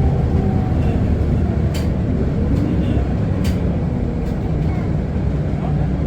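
Isuzu Erga city bus heard from inside the cabin while driving: the steady hum of its four-cylinder diesel engine with road noise. Two sharp clicks come about two and three and a half seconds in.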